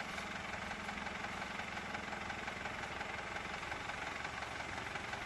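Tractor engine running steadily with an even, rapid firing pulse.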